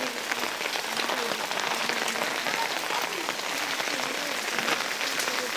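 Steady heavy rain falling, with a dense patter of individual drops hitting close by.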